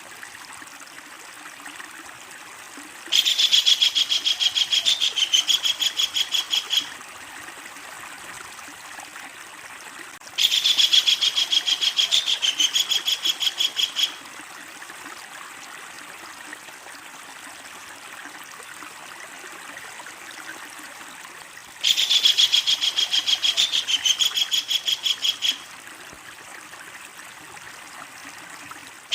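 Kingfisher giving its long cackling call: a fast, even series of high, sharp notes lasting about three and a half seconds. It calls three times with long pauses between, and a fourth series begins right at the end.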